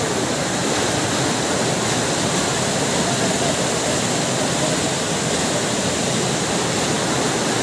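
Heavy rain and floodwater rushing in a steady, unbroken roar.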